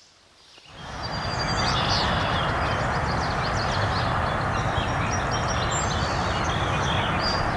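A steady rushing noise fades in within the first second and holds, with many small birds chirping and singing over it.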